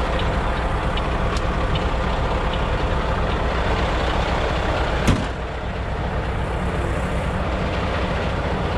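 Semi truck's diesel engine idling steadily, with faint scattered ticks and one sharp metallic clank about five seconds in.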